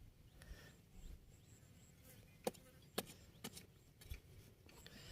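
Near silence, with four faint sharp ticks spread over a second and a half past the middle.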